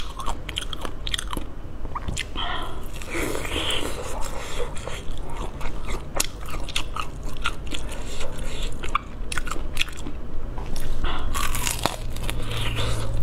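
Crispy-skinned pork belly crunching as it is bitten and chewed, with many short sharp crunches in quick succession.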